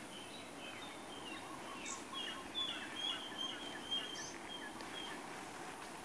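Small birds chirping in quick runs of short high notes, loudest in the middle, over a steady high-pitched insect drone.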